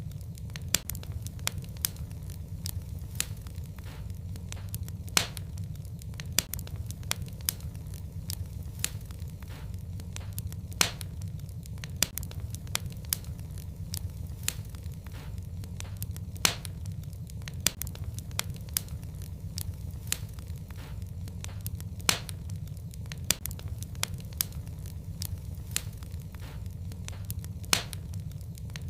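Wood fire burning in a fireplace: a steady low rumble of flames with many sharp, irregularly spaced crackles and pops, a few of them noticeably louder.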